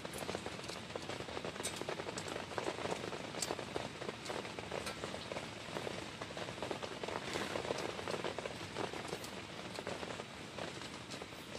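Heavy rain falling, a dense steady patter with many scattered sharper drop hits.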